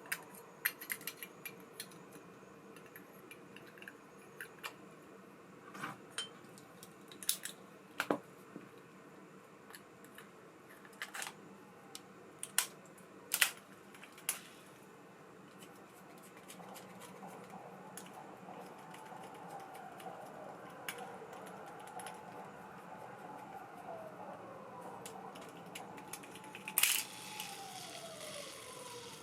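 Small clicks and knocks of a baitcasting reel being handled, then the reel's spool spinning freely with a steady whirr whose pitch falls as it slows, twice near the end.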